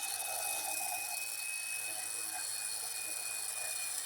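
Angle grinder running with a steady high whine and hiss as it cuts off protruding nails.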